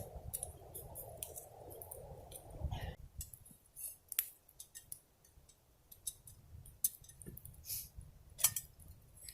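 Foil freeze-dried meal pouch being handled, crinkling and rustling in scattered sharp crackles and clicks. A steady hiss stops abruptly about three seconds in.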